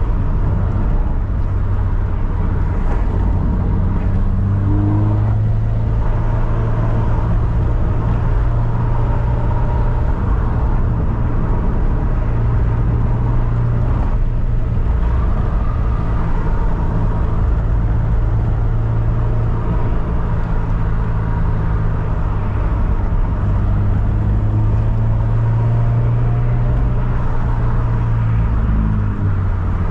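Toyota 86's flat-four engine running steadily as the car is driven, its pitch drifting gently up and down with engine speed.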